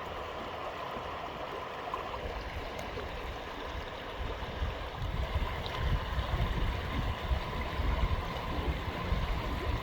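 Creek water running steadily over rocks. About halfway through, a louder, uneven low rumble joins it.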